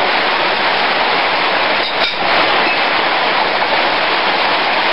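Heavy rain pouring down, a loud steady hiss, with a faint short knock about two seconds in.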